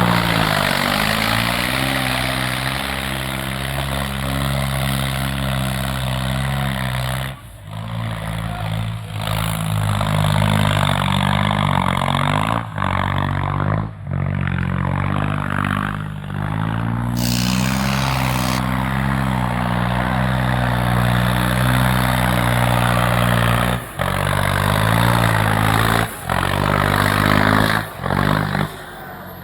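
John Deere tractor's diesel engine running hard at a steady, high speed, as if labouring under load in a pulling contest. The sound cuts out for a moment several times.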